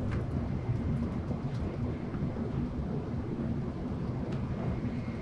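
Steady low rumble of an N700S Shinkansen bullet train running at speed, heard from inside the passenger cabin.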